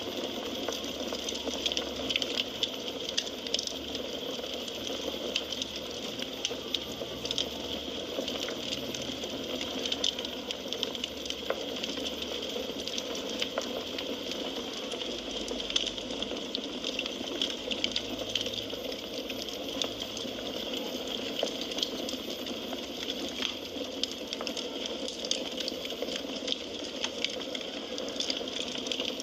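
Firewood burning in a fireplace: a steady hiss of flames with frequent small crackles and pops at irregular intervals.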